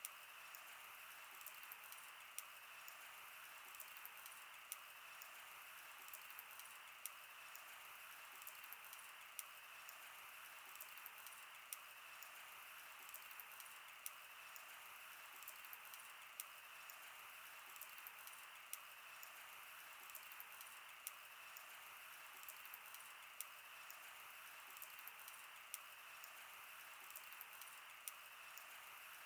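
Wood fire burning: frequent, irregular sharp crackles and pops from the burning wood over a steady faint hiss.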